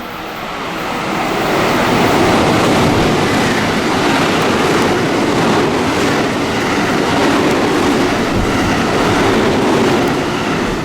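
A train passing through a station at speed without stopping: a loud rush of wheel and rail noise that builds over the first two seconds, holds steady, and eases near the end.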